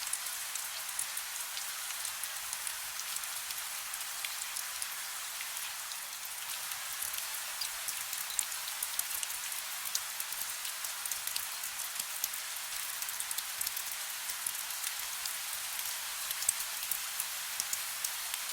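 Soft steady rain: an even hiss of falling rain with many small drop ticks scattered through it.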